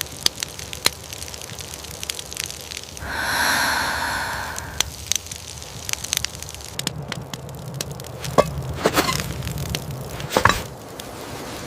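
Campfire crackling with scattered sharp pops. A hiss rises about three seconds in and fades over a second or two, and a few louder knocks and rustles come near the end.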